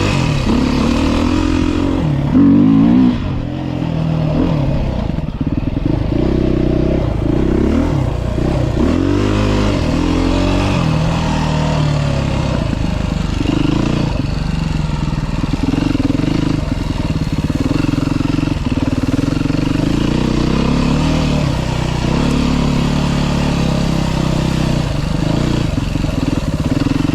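2023 Beta 390 RR-S dirt bike's single-cylinder four-stroke engine being ridden hard, its revs repeatedly rising and falling, with a brief louder burst of throttle about two and a half seconds in.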